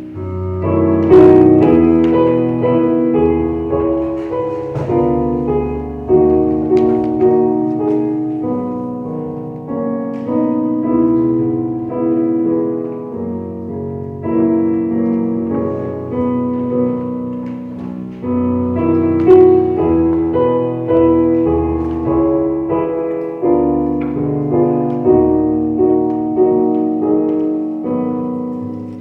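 Piano playing slow music in held chords, each chord struck and left to ring and fade before the next.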